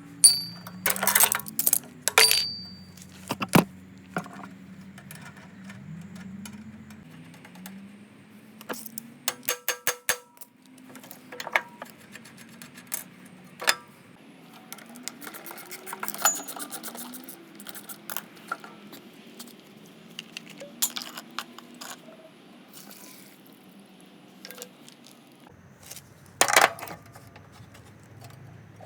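Hand tools and small metal lawnmower parts clinking and tapping at irregular intervals while the mower is taken apart, with louder clusters of knocks near the start and about 26 seconds in.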